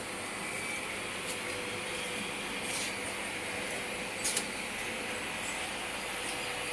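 Automatic oil-filling production line running: a steady mechanical noise with a faint constant hum, broken by a few brief clicks and hisses, the loudest a quick double click about four seconds in.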